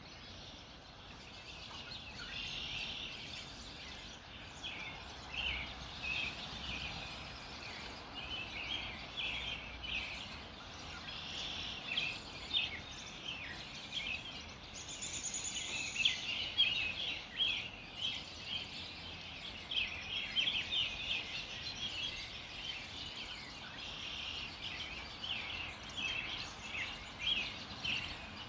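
Many small birds chirping and twittering at once in a dense, unbroken dawn chorus. About halfway through, a single higher, steady note sounds for a second or so.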